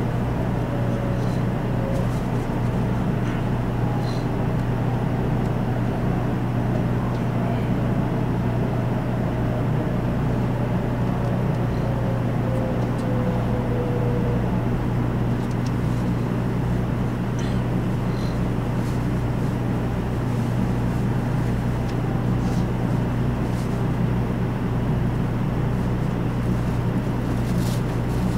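Cabin noise of a JR West 500 Series Shinkansen slowing into a station: a steady low hum and rumble with a faint whine that falls slowly in pitch through the first half as the train decelerates.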